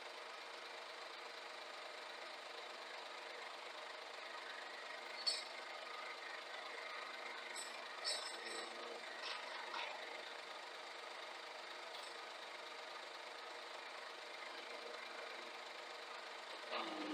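Scania truck engine running steadily, heard faint and thin, with a few short clicks and knocks near the middle.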